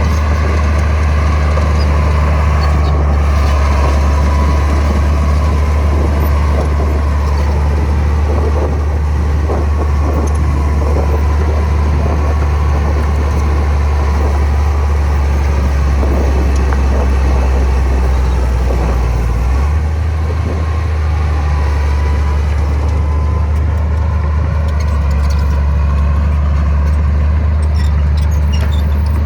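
Heavy diesel earthmoving machinery running steadily with a loud low drone, which shifts slightly in pitch about two-thirds of the way through.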